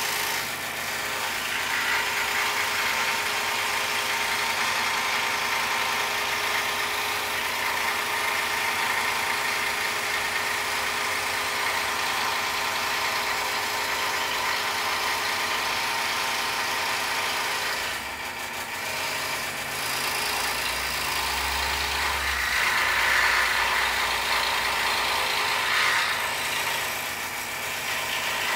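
Scroll saw running steadily as its blade cuts through a poplar board, with a steady motor hum and the hiss of the cut; the sound eases briefly about eighteen seconds in and again near the end.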